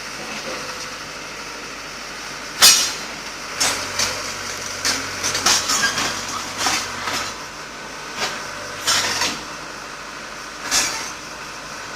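Backhoe with metal wheels rolling on a concrete road: irregular metallic clanks and bangs, the loudest about two and a half seconds in, over a low engine hum.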